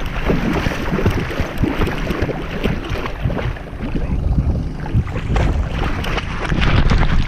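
River water splashing and sloshing in a constant, irregular churn as a pit bull wades and plays in the shallows, heard close up from a camera worn on the dog.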